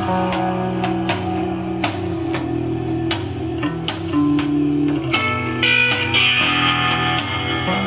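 Rock music with guitar and drums, played back from a cassette tape on a Sony TC-FX210 cassette deck.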